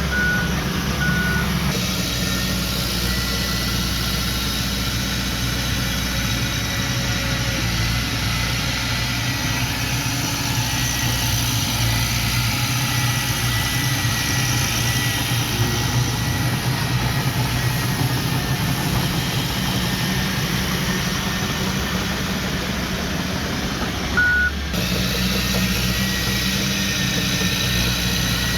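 Heavy earthmoving machinery engine running steadily, with a few short high beeps near the start and one more near the end.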